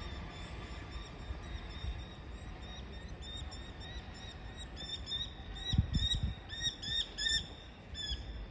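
A bird chirping over and over in short, down-curving notes, the calls coming thicker toward the end, with a couple of low thumps about two-thirds of the way in.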